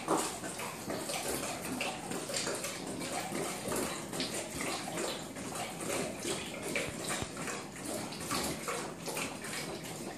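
Saint Bernard drinking from a refrigerator's water dispenser: continuous splashing water with irregular wet slurps as the dog laps.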